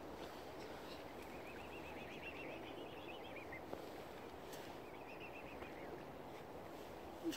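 A small bird calls in two quick runs of rapid high chirps, the first about two seconds long and the second shorter, over a steady low background rush.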